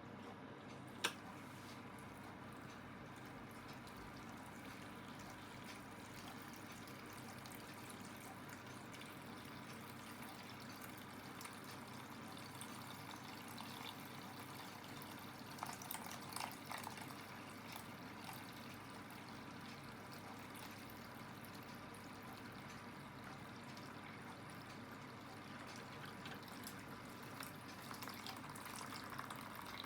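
Aidoo 1 kg mini washing machine taking in water, a steady rush of water into the drum. A single sharp click comes about a second in, and a few louder splashes come around the middle.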